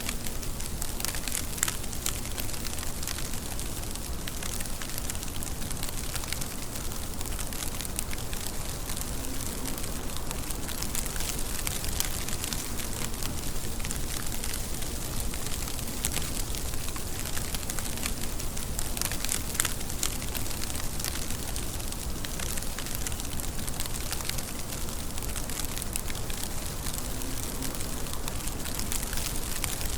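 Steady rain with many sharp droplet ticks scattered through it.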